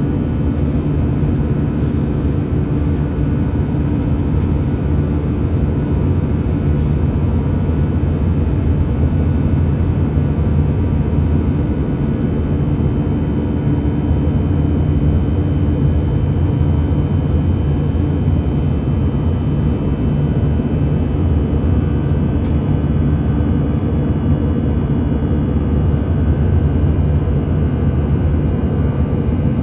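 Airbus A320 jet engines running with a steady, unchanging noise that holds an even level throughout, with a few faint steady tones over it.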